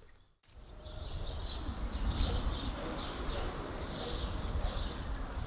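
Outdoor ambience of birds chirping, short high calls repeating every half second or so over a low rumble, starting after a brief dropout about half a second in.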